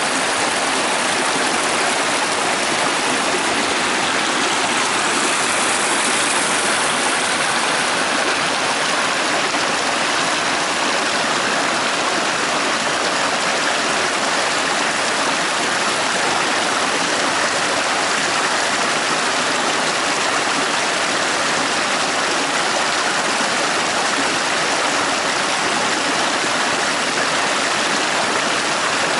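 Upper Prut mountain river rushing steadily with the even hiss of fast water.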